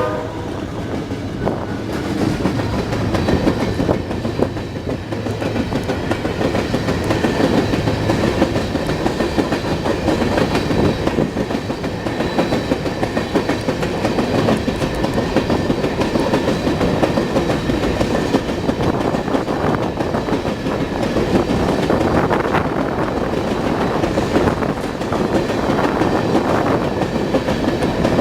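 A train passing close by, its steel wheels clattering steadily over the rail joints as the cars roll past.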